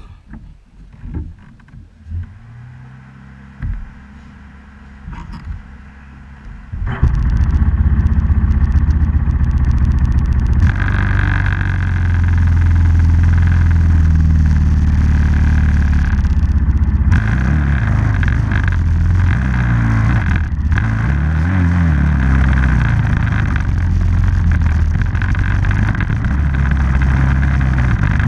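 A few scattered knocks, then about seven seconds in an off-road vehicle's engine comes in suddenly and runs loud and steady, its pitch rising and falling a few times as it is revved.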